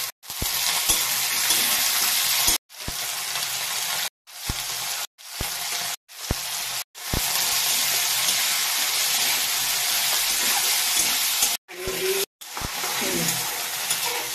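Potatoes, onions and green stalks sizzling in hot oil in a metal kadai while being stirred with a spatula. The steady sizzle breaks off sharply and resumes several times.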